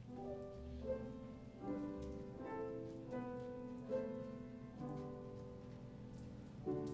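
Instrumental church music on a keyboard: slow sustained chords, a new chord about once a second.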